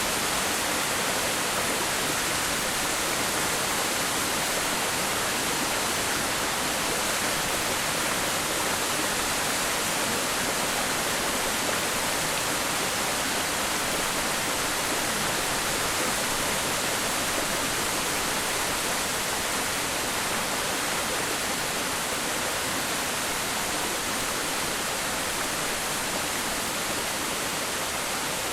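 Waterfall: a steady, unbroken rush of falling water, with more hiss than rumble.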